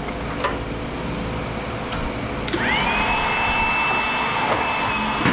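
Under a steady mechanical hum, an electric power tool's motor spins up about two and a half seconds in, rising quickly to a high, steady whine that keeps running.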